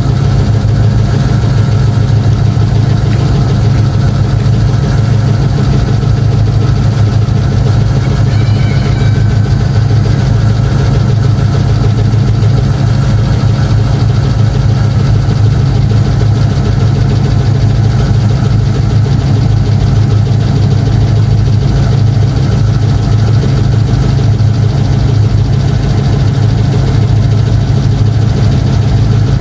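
2005 Chevrolet Tahoe's V8 idling steadily after a cold start.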